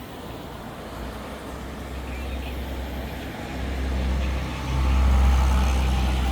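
Motor vehicle running in traffic: a steady deep rumble that swells louder about three and a half seconds in and again near five seconds.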